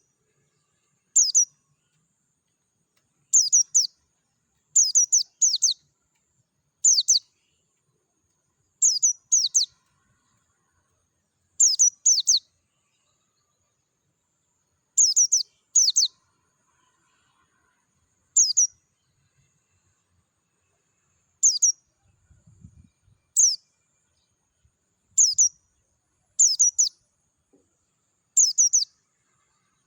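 White-eye (pleci dakun) calling: short, very high chirps that sweep downward, mostly in quick pairs, repeated every one to three seconds with silence between. A faint low rumble comes about two-thirds of the way through.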